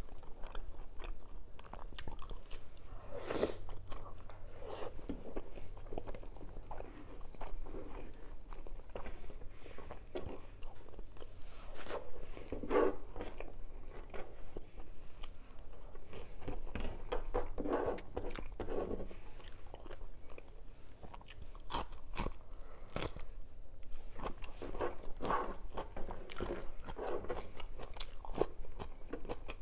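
Close-up eating sounds of a person eating rice and egg by hand: chewing and lip smacking with frequent short clicks and crunches.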